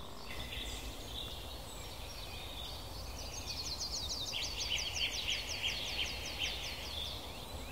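Small birds singing: a rapid run of repeated high, falling notes, about five a second, begins about three seconds in, with a lower run of notes joining a second later over a faint background hiss.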